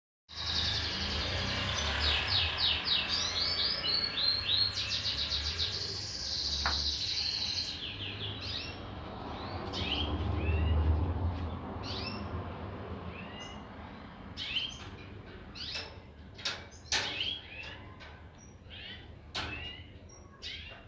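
Birds chirping and trilling, several calls overlapping in quick repeated strokes, over a low steady rumble. In the second half the chirps thin out and a few sharp clicks or knocks cut through.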